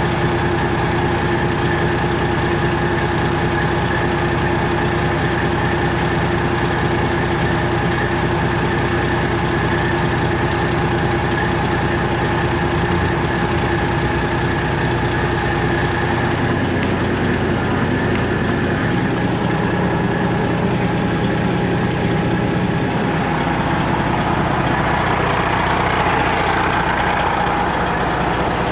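Semi truck's diesel engine running steadily at an even speed.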